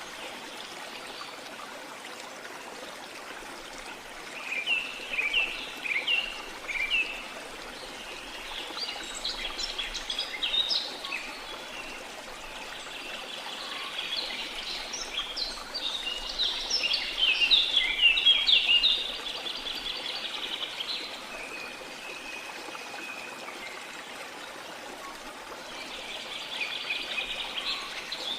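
Steady rush of a flowing river, with rain forest birds chirping over it in repeated bouts of quick, high calls.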